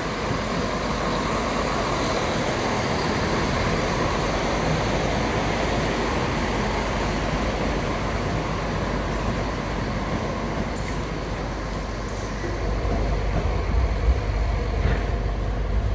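Diesel multiple unit running as it pulls out of the station, a steady mix of engine and wheel noise. A deeper low rumble builds near the end.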